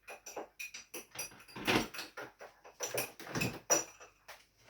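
A series of irregular clicks and knocks from things being handled in a kitchen, with a few louder knocks about two, three and three and a half seconds in.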